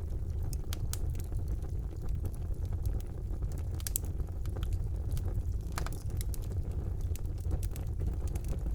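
Wood fire burning in a fireplace: a steady low rumble of the flames with scattered sharp crackles and pops, a louder pop about four seconds in and another about six seconds in.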